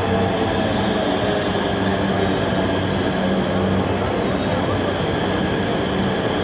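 Electric RapidX regional train running into the platform, a steady rumble with a constant electric hum.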